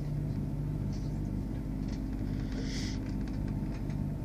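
Steady rumble and hum of a moving passenger train, heard from inside the carriage, with a short hiss about two and a half seconds in.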